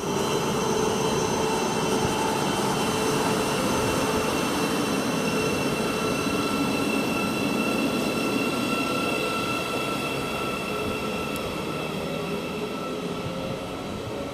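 Thameslink Class 700 electric multiple unit pulling out of the station: steady running noise with a few steady whining tones, slowly fading towards the end.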